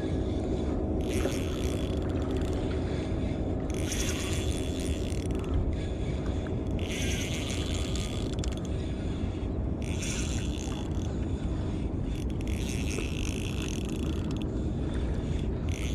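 Shimano Stradic Ci4+ 1000 spinning reel being cranked in spurts of a second or two every few seconds, winding in a tired fish on light braided line. A steady low hum runs underneath.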